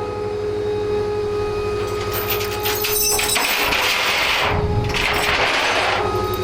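Tow truck running with a steady whine while a wrecked Harley-Davidson is dragged onto it. From about two seconds in, metal clicks, then loud scraping that comes and goes as the bike scrapes along.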